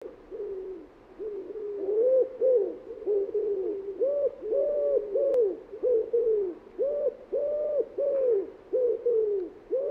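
A pigeon cooing over and over in short, arching notes grouped into phrases.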